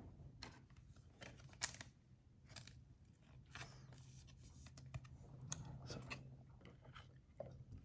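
Faint handling of trading cards: soft clicks, taps and short rustles scattered through, over a faint steady low hum.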